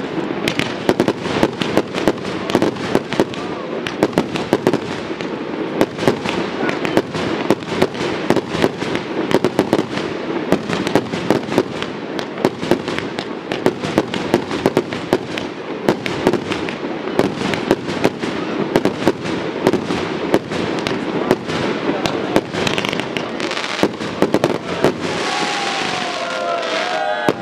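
Fireworks display: aerial shells and cakes firing and bursting in a rapid, irregular string of sharp bangs, several a second, over a continuous crackle. A few falling tones come in near the end.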